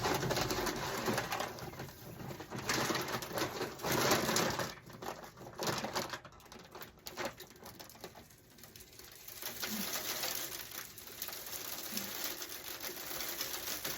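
Wild bird seed being poured from a bag into a bird feeder: a rushing patter of grains that swells and fades unevenly and dips low about eight seconds in.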